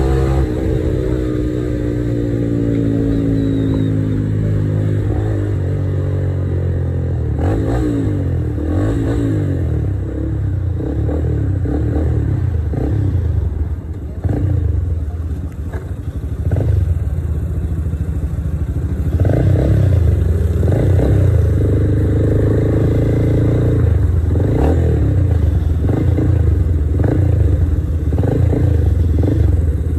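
Motorstar Z200II motorcycle engine heard from the rider's seat. The revs fall away over the first few seconds, then rise and drop back again and again as the bike is ridden through traffic.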